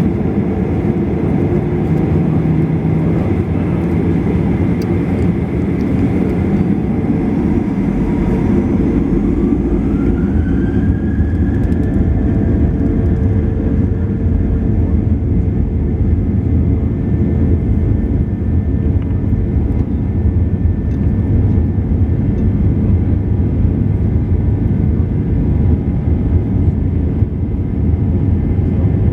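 Boeing 737-800's CFM56-7B jet engines heard from inside the cabin: a loud, steady rumble with a whine that climbs about a third of the way through and then holds. The engines are spooling up to takeoff thrust.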